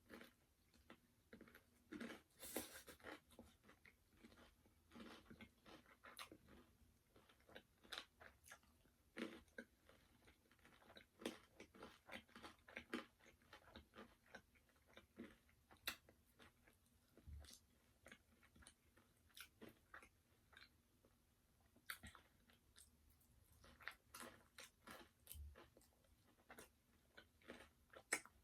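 Close-up chewing and crunching of crispy Jollibee spicy fried chicken: a run of sharp, crackly crunches with soft chewing between them.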